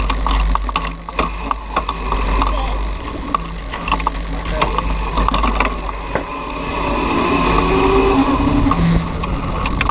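Razor MX500 electric dirt bikes riding, their electric motors whining steadily under a low rumble, with frequent rattling clicks from the chain and frame.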